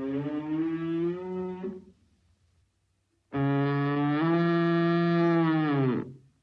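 Cow mooing: one long moo ends about two seconds in, then after a short pause a second long, level-pitched moo of nearly three seconds.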